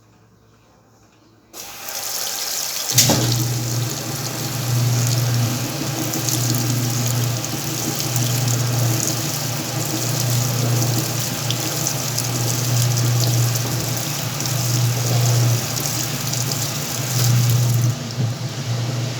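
Whirlpool washing machine filling: water starts rushing into the tub suddenly about a second and a half in. A click about three seconds in is followed by a low motor hum that comes and goes in pulses of about a second.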